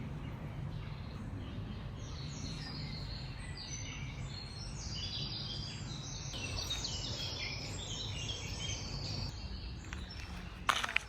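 Birds chirping and singing in short, rapid calls from about two seconds in until near the end, over a steady low background rumble. A single sharp knock sounds near the end.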